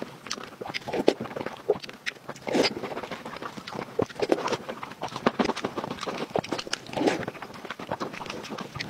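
Close-miked eating sounds: wet chewing and lip-smacking on soft braised pork belly and rice, with many short, sharp mouth clicks.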